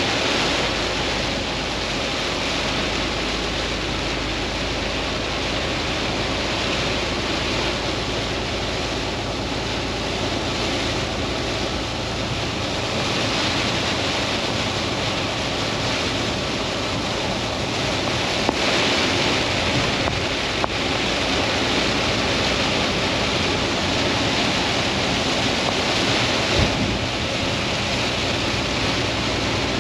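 Heavy rain hitting the windshield and roof of a Volvo truck cab, heard from inside as a steady rushing hiss, with the truck's road noise and spray underneath.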